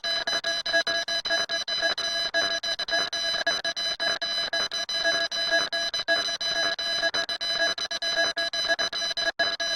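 Harsh electronic alarm-like tone, holding the same few shrill pitches and stuttering rapidly and unevenly, with a brief dropout near the end.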